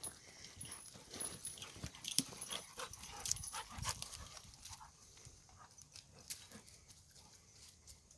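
Footsteps crunching and rustling through leaves and twigs on a woodland path, with dogs moving about close by. The irregular crunches are busiest in the first half and thin out toward the end.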